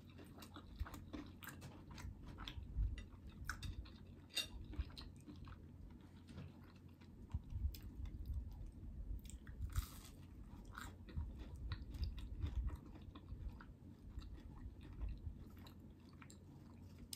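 A person chewing and crunching fried food close to the microphone, with irregular wet mouth clicks and crackles throughout.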